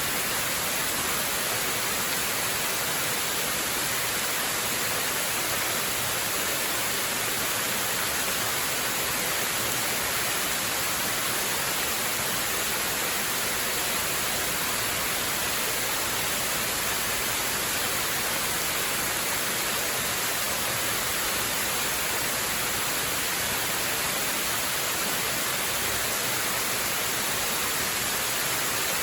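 Waterfall: a steady, unbroken rush of falling water, bright and hissy, with no change in level.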